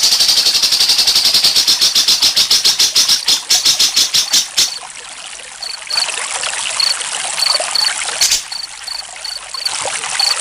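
Water trickling and flowing steadily, with crickets chirping in evenly spaced short pulses about two to three a second. For the first few seconds a louder, faster pulsing trill sits over the water.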